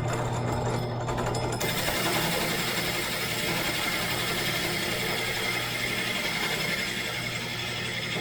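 Power saw with a brand new blade, its motor running with a steady hum. About one and a half seconds in, the blade starts cutting wood, adding a loud, even hiss.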